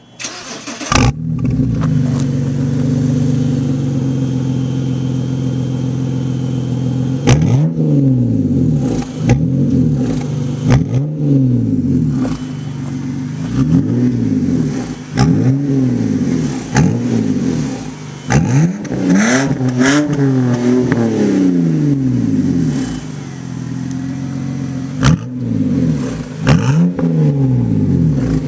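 BMW E90 330i straight-six engine breathing through a Meisterschaft exhaust with SR midpipes: a warm start about a second in, idling, then repeated short throttle blips about every one and a half seconds, with one longer, higher rev near the middle.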